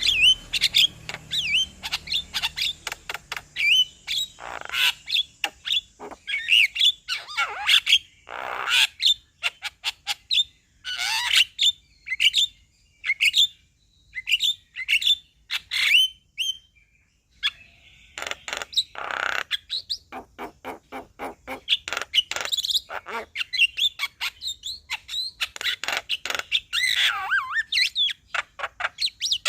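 Male Javan myna singing: a rapid stream of short chirps, harsh notes and gliding whistles. It goes quieter for a few seconds about halfway through, then starts again.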